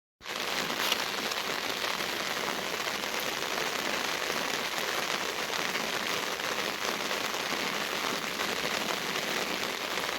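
Heavy rain falling steadily on surfaces, an even unbroken patter of drops.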